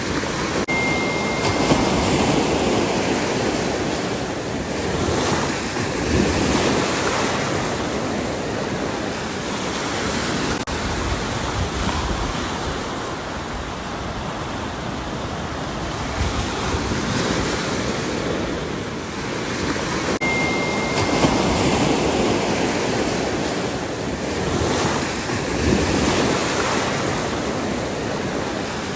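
Ocean surf: waves breaking and washing in, the rush swelling and easing every four to five seconds. A brief faint high whistle sounds twice, about twenty seconds apart.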